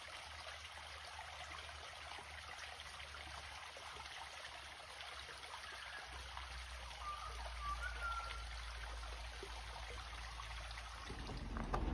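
Steady outdoor background hiss, with a few short, high bird chirps about seven to eight seconds in.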